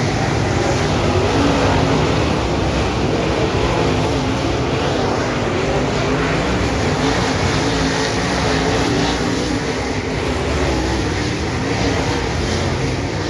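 Dirt track race cars running laps, several engines at once, their pitch wavering up and down as they go around the track.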